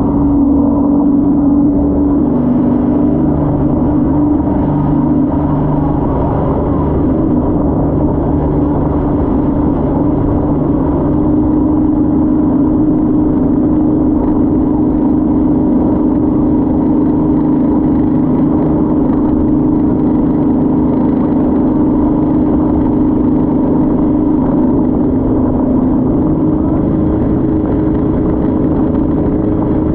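Motorboat engine running at a steady drone, its pitch stepping up a little about a third of the way in and again near the end.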